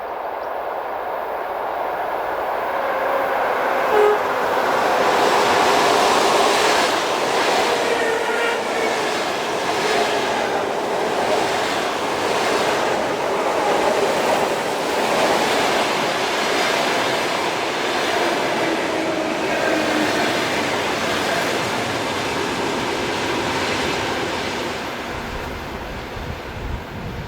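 Electric train passing close by at speed, with a rumbling roar and regular clacks of wheels over rail joints. It builds up over the first few seconds, holds for about twenty seconds, then fades away near the end.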